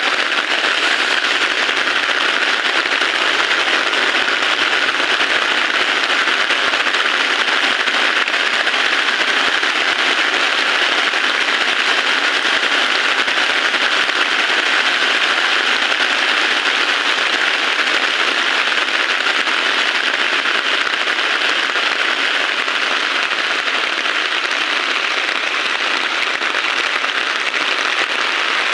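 Heavy rain falling steadily: a dense, even hiss of drops that holds at the same level throughout.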